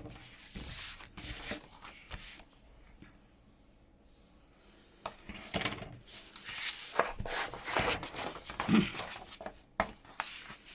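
Paper pages being burnished, a tool rubbed firmly over the paper in repeated scraping strokes. The strokes pause for a couple of seconds, then start again about five seconds in.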